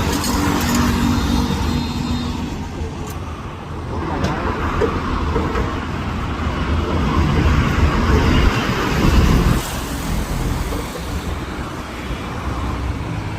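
A vehicle engine running amid road traffic noise: a steady low drone, with a few sharp clicks along the way.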